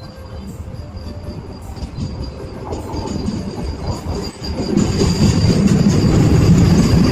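Vande Bharat Express electric trainset approaching on the rails, its wheel and rail rumble growing steadily louder.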